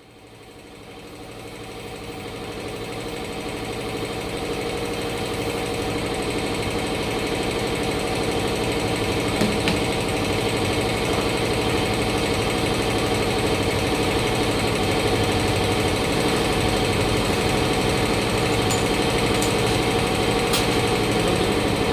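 A machine motor running steadily with a hum. It swells up over the first few seconds, then holds even.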